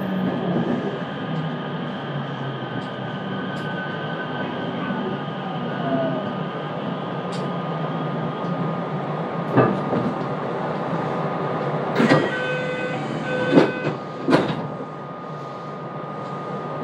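Cabin running noise of a JR West 227 series electric train: steady rolling rumble under a thin motor whine that glides down in pitch early on. Several sharp clacks come about ten seconds in and again between twelve and fourteen seconds, with a brief series of ringing tones among them. After that the noise gets quieter.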